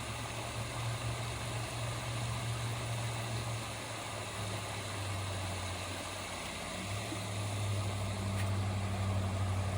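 Steady low motor hum, like a small engine or pump running, shifting slightly in pitch twice.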